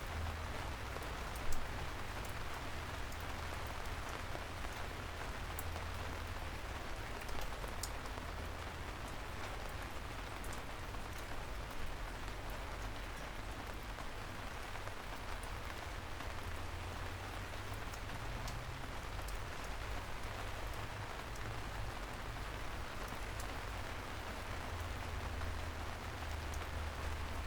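Steady soft rain falling on a city street, an even hiss with a few louder drop ticks, the loudest about a second and a half in. A low steady rumble runs underneath.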